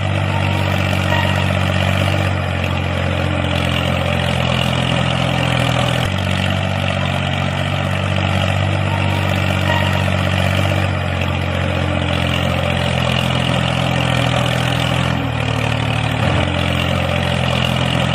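Engine idling steadily, a low even drone that shifts slightly a few times.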